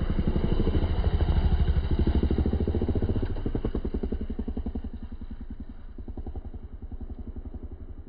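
Dirt bike engine running with a steady stream of exhaust pulses, growing fainter over the second half.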